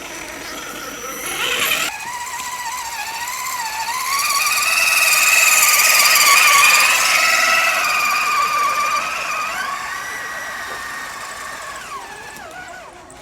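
Radio-controlled scale rock crawler's electric motor and gearbox whining under throttle, the pitch wavering up and down, growing louder toward the middle and cutting off near the end.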